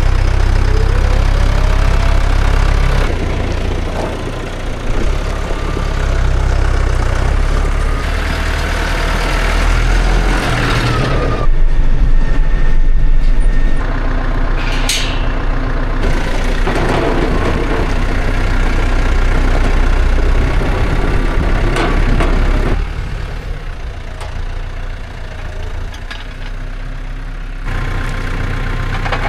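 Engine running steadily, in several segments that change abruptly, with a short high hiss about halfway through.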